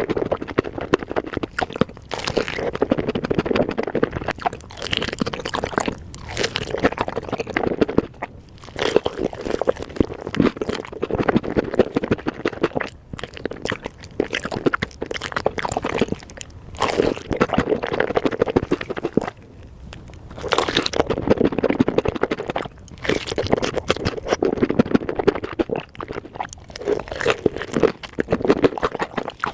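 Close-miked chewing of spicy chicken: repeated crunching, wet mouth sounds and bites in clusters of a few seconds, with short pauses between.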